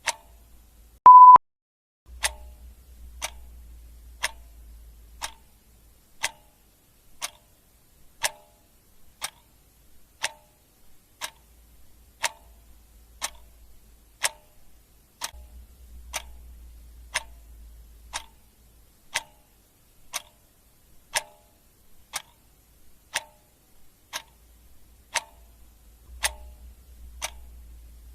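Clock ticking steadily, about one sharp tick a second. About a second in, a short, loud electronic beep at a single pitch sounds once.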